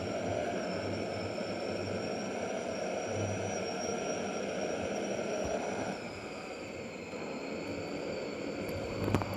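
Truck running on the road: a steady engine and road noise with a thin high whine. About six seconds in the whine drops in pitch and the sound gets a little quieter, as when the engine eases off. A sharp knock comes near the end.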